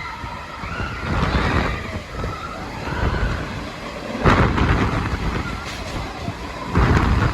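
Passenger train running, a loud steady rumble with wind noise, rising in two sudden louder surges about four and seven seconds in.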